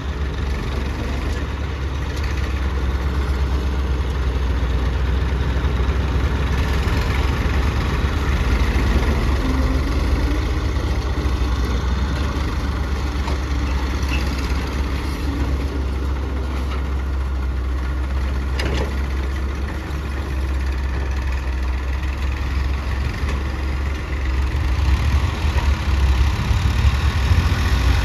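Heavy machine engine running steadily at a low rumble, its pitch shifting a little about a third of the way in and getting louder near the end. A single sharp knock sounds about two-thirds through.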